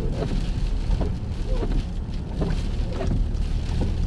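Car driving on a snowy road: a steady low rumble with short squeaks every second or so.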